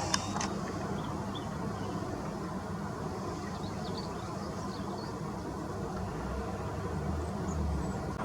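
Steady low background rumble with a few faint, short, high bird chirps scattered through it.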